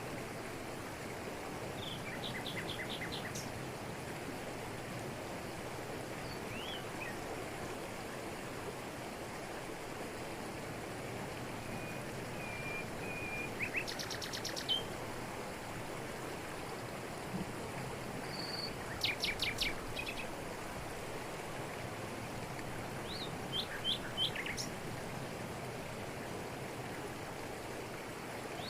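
Waterfall falling over rocks, a steady rushing of water, with forest birds calling over it in short runs of quick high chirps several times.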